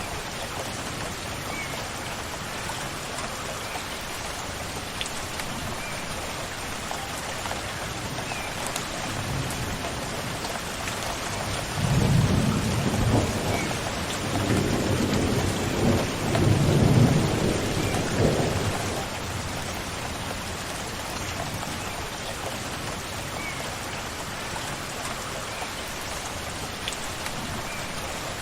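Steady rain falling, with a long low rumble of thunder that builds about ten seconds in, is loudest for several seconds, and fades away a little past the middle.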